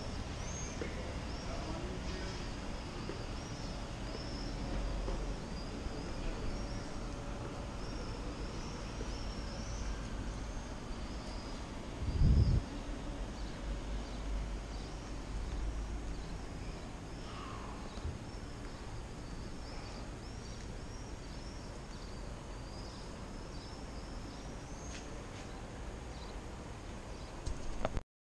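Small birds chirping over and over in short high calls above a low steady rumble, with one low thump about twelve seconds in.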